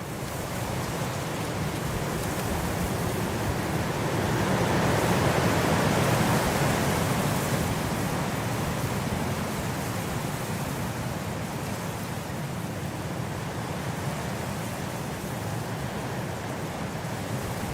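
Blizzard wind blowing steadily, a gust swelling about five seconds in and easing off again.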